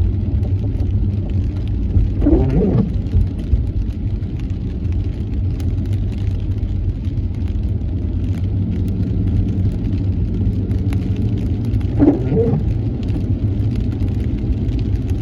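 Steady low road and engine rumble inside a car driving in the rain, with two short wavering squeaks about ten seconds apart.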